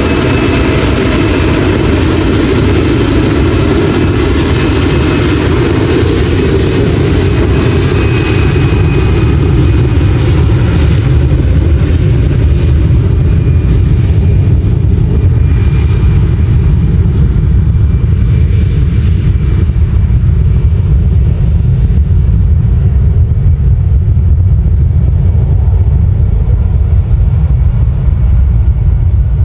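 Jet airliner engines at high power. A whine of steady tones fades away over the first half, while a deep, loud rumble carries on.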